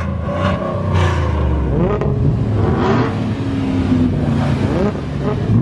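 Car engine revving, the pitch climbing and dropping several times with a steadier held note in the middle.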